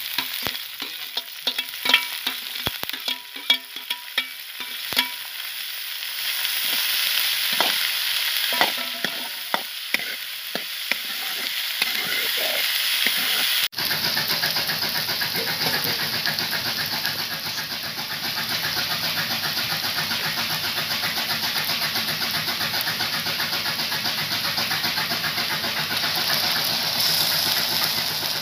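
Chopped onions frying in hot oil in a large iron wok: a steel spoon clinks and scrapes as the onions are tipped in from a steel bowl and stirred, while the sizzle builds. About halfway through the sizzle becomes a steady, even hiss that runs on.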